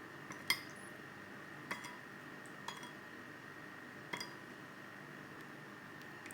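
A metal utensil clinks against a dish or pan four times, at irregular gaps of about a second, each strike ringing briefly. A faint steady hum runs underneath.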